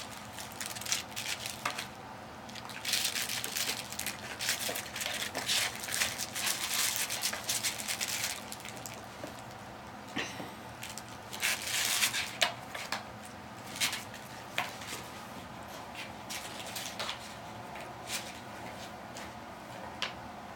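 A cat scratching and scrabbling at a cardboard box, in scratchy rustling spells: long busy stretches in the first half, then scattered short scratches and knocks.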